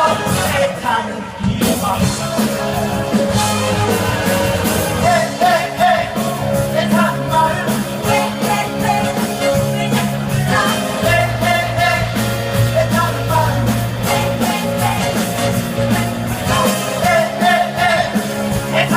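Live band playing an upbeat rock-and-roll style number with singing over it, from a stage musical: a steady bass line, regular drum beats and a lead vocal line.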